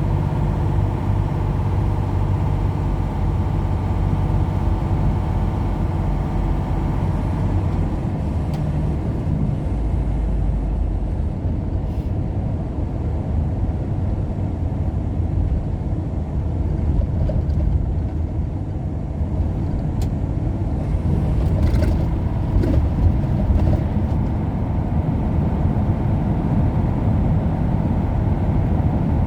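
A road vehicle driving steadily, its engine hum and road rumble continuous throughout.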